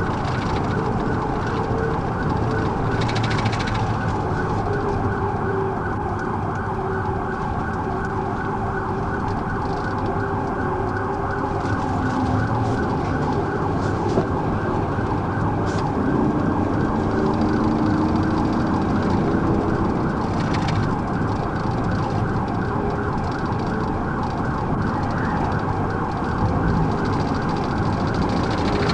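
Police car siren sounding continuously, its pitch sweeping up and down over and over, over the steady noise of the patrol car's engine and tyres on the road.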